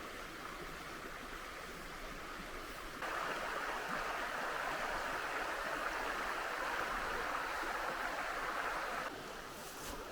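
Steady rush of flowing river water. It turns abruptly louder about three seconds in and drops back just as suddenly about nine seconds in.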